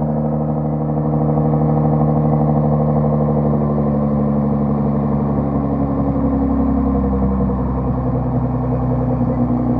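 Nissan GT-R's engine idling steadily through its exhaust, settled after being started.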